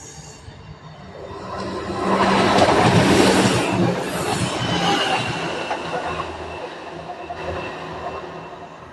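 A train passing through the station, its rumble building to its loudest about two to three seconds in and then slowly fading away.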